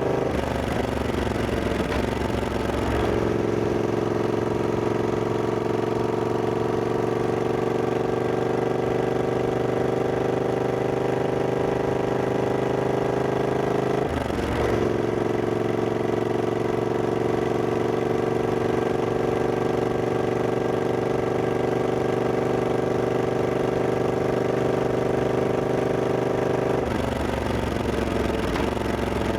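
Triumph Scrambler 1200X's 1200 cc parallel-twin engine running under way at a steady pace. The engine note shifts in pitch in the first few seconds, breaks briefly about halfway through, and changes again near the end.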